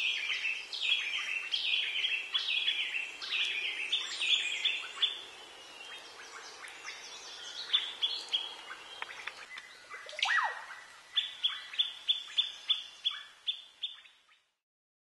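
Cloud-forest birds calling and singing: quick repeated chirping phrases, a sharp falling note, then a run of about ten short evenly spaced notes, about three a second, before the sound cuts off abruptly.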